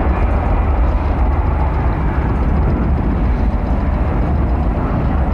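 Boeing 777 jet airliner during landing: a steady heavy low rumble under a broad rushing noise.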